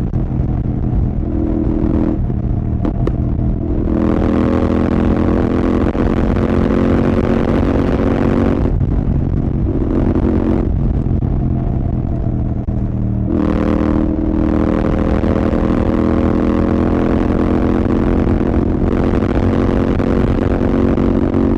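Royal Enfield Continental GT 650's parallel-twin engine through a Red Rooster aftermarket exhaust, pulling hard with its note climbing under throttle. The pull is broken several times by brief throttle lifts for gear changes.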